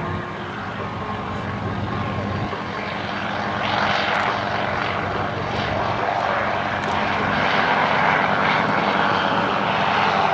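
Sikorsky UH-34D helicopter in flight: its Wright R-1820 nine-cylinder radial piston engine and rotor make a steady drone that grows louder about four seconds in as the helicopter comes closer, and stays loud.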